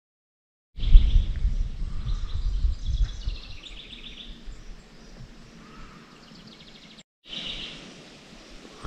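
Small birds chirping and trilling outdoors. A loud, low rumble dominates the first couple of seconds, then fades. The sound cuts out briefly about seven seconds in, and the chirping resumes.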